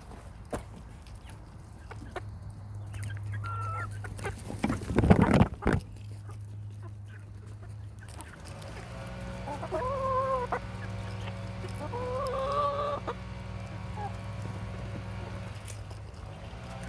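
Hens clucking, with a short call about three and a half seconds in and drawn-out calls in the second half. A loud, brief noisy scuffle about five seconds in, over a steady low hum.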